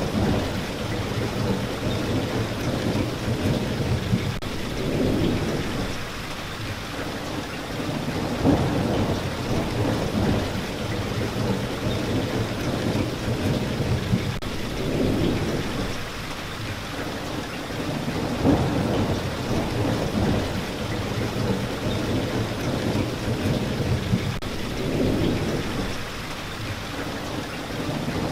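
Steady heavy rain, with low rumbles of thunder that swell and fade every few seconds.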